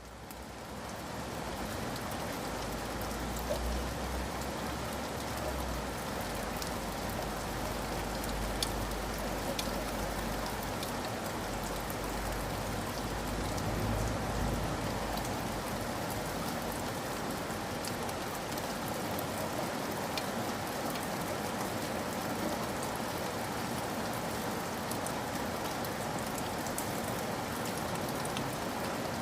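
Steady rain falling and pattering on a surface, with scattered individual drop ticks. It fades in from silence at the start, and a low rumble runs beneath it through the first half.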